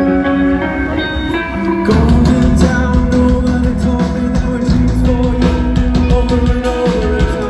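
A live heavy rock band playing loudly. A picked guitar line rings for about two seconds, then the full band crashes in with heavy guitars, bass and drums.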